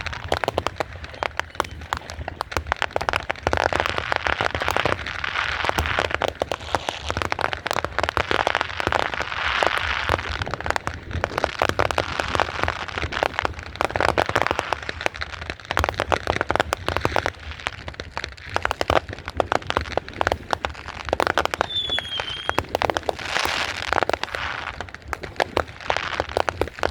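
Consumer fireworks and firecrackers crackling and popping without a break, countless small sharp reports overlapping, with a short high whistle about four-fifths of the way through.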